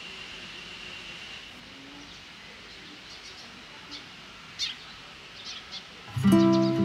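Outdoor garden ambience with a faint steady high tone that stops about a second and a half in, then a few short bird chirps. Strummed acoustic guitar music comes in loudly near the end.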